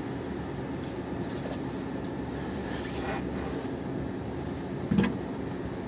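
A car engine running steadily at idle, with a short thud about five seconds in.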